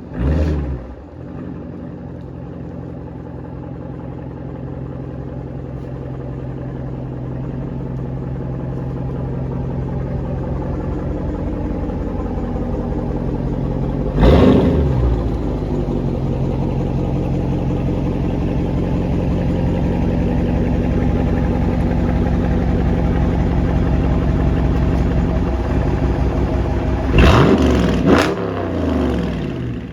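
2020 Dodge Challenger R/T's 5.7-litre HEMI V8 running at a steady speed through a mid-muffler-delete exhaust, growing slowly louder. It is revved briefly about halfway through, then blipped two or three times near the end.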